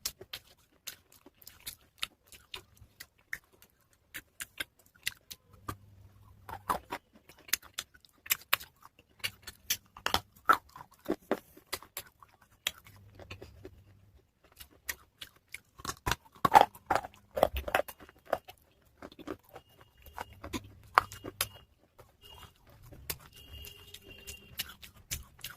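Pieces of a wet baked-clay pot crunching and crackling close to the microphone: many sharp, irregular clicks, loudest and thickest about two-thirds of the way through.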